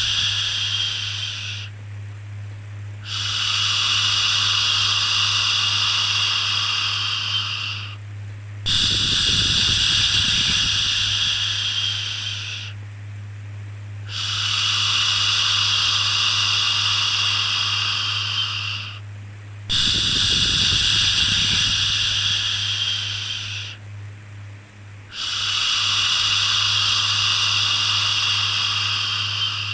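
A long "shhh" shushing sound to soothe a baby, repeated about six times, each shush lasting four to five seconds with short breaks between. A steady low hum runs underneath.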